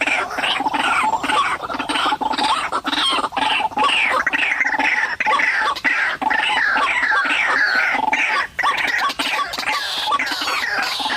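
White-breasted waterhen (ruak-ruak) calling: a continuous run of short falling notes, two to three a second.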